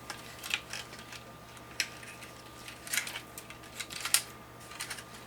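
Scattered light clicks and taps of hands handling PC case parts and fan wires, the sharpest about four seconds in, over a faint steady electrical hum.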